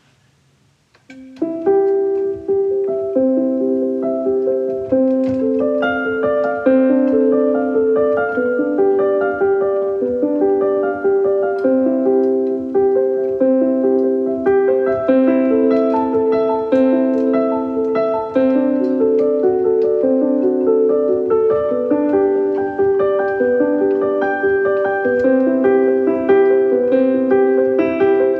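Background piano music: a steady run of notes, starting about a second in.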